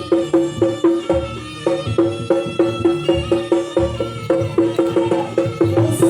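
Live Javanese jaranan gamelan music: steady, evenly repeated pitched strikes, about four a second, over low drumming, with a brief sharp noise near the end.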